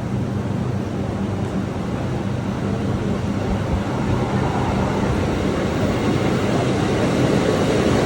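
Electric multiple-unit commuter train running, a steady rumble with low hum tones that fade after the first few seconds while the overall sound slowly grows louder.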